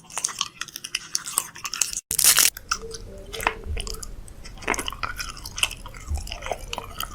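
Close crunching and chewing sounds made of many small crackles and clicks, with a brief cut to silence about two seconds in and then a short loud burst of noise.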